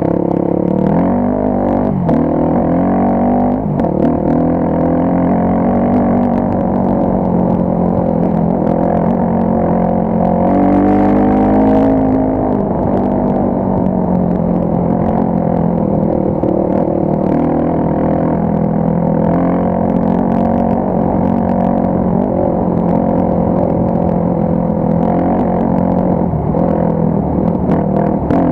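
Motorcycle engine running at low revs on a dirt trail, its pitch rising and falling with the throttle, with a longer rev-up and back down about ten to thirteen seconds in.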